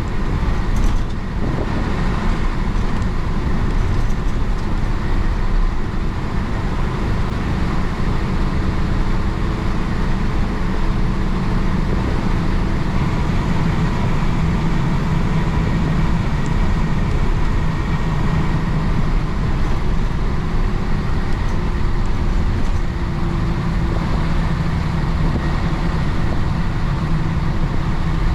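Isuzu BXD30 bonnet bus's DA640 inline-six diesel engine running steadily under way, a continuous low drone mixed with road noise, its note strengthening slightly now and then.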